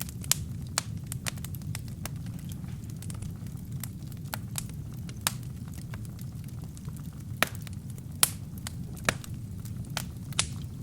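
Wood burning in a fireplace: a steady low rumble of flames with frequent sharp crackles and several louder pops.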